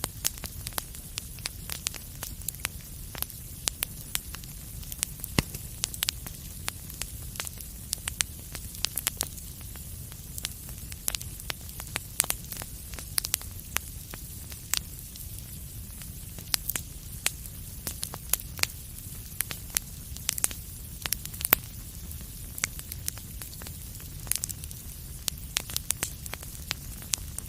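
Wood fire burning in a fireplace: a steady low rumble and hiss with frequent sharp crackles and pops, a few of them louder.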